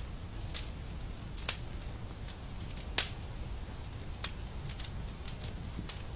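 Wood fire in a fireplace crackling, with irregular sharp pops over a steady low rumble of the flames; the loudest pop comes about halfway through.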